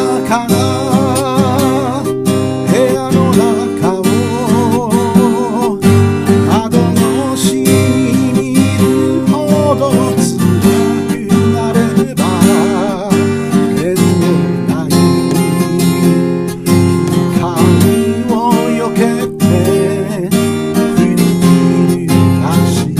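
Song played on a strummed acoustic guitar, with a melody line that wavers in vibrato above it, most clearly during the first six seconds and again about twelve seconds in.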